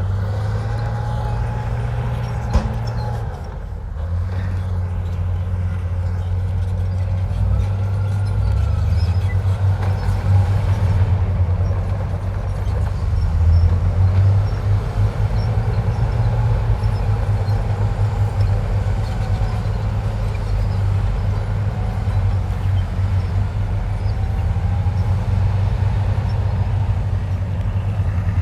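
Heavy diesel earthmoving machinery running steadily, a deep engine rumble with a faint whine that rises and falls every few seconds. A sharp click a little over two seconds in.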